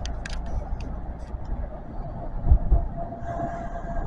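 Kintetsu electric train running along the track, heard from inside the front car: a steady low rumble with a few light clicks in the first second and a half, two low thumps about two and a half seconds in, and a steady whine from about three seconds in.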